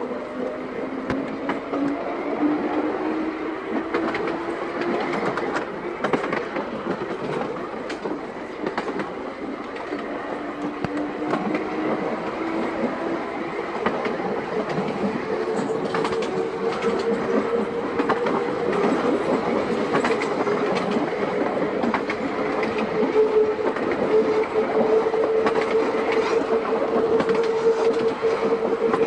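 Seaton Tramway electric tram running along the track. Its wheels click over the rail joints, and a whine rises slowly in pitch, then holds steady as it grows louder toward the end.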